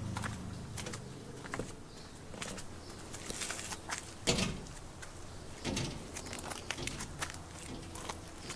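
Footsteps on a bush track: scattered crunches and clicks, with two heavier footfalls a little after halfway. A low rumble of distant road traffic runs underneath.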